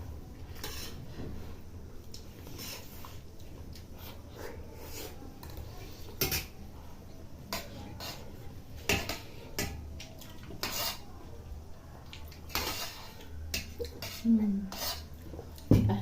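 Spoons clinking and scraping against dishes as food is scooped and eaten, in irregular clicks scattered through the whole stretch.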